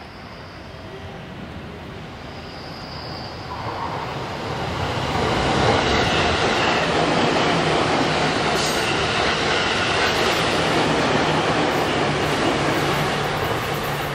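A passenger train running past close by: the rush of wheels on rails builds from about four seconds in, stays loud and steady through the middle, and eases near the end.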